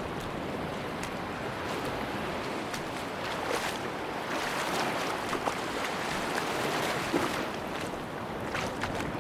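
Sea waves washing on a beach: a steady surf hiss that swells about three seconds in and eases off after about seven, with light scattered clicks throughout.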